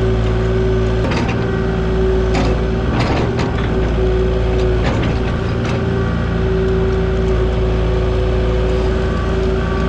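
Kubota KX040 mini excavator's diesel engine running steadily, with a few sharp knocks and clanks as the machine works.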